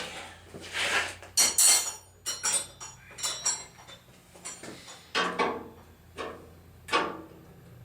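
Metal tools and hardware clinking and clanking in a run of separate knocks while the fuel tank on a hit-and-miss engine is being cinched down, with a bright ringing clank about a second and a half in.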